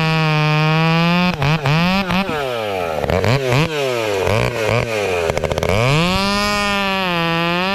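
70cc-class two-stroke chainsaw at full throttle. Its pitch drops and wavers for a few seconds as the chain bogs under load in softwood firewood, then climbs back to full revs as it clears the cut.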